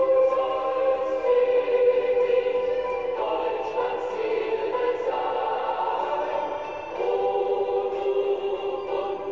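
Background music: a choir singing long held chords, which change about three seconds in and again about seven seconds in.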